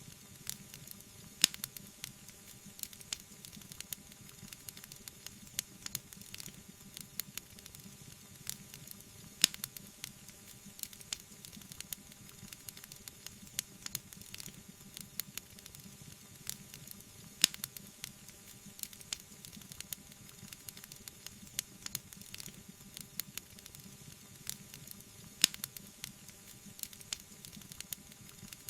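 Wood fire crackling: a steady stream of small snaps and pops over a soft hiss, with four sharper, louder pops spaced about eight seconds apart.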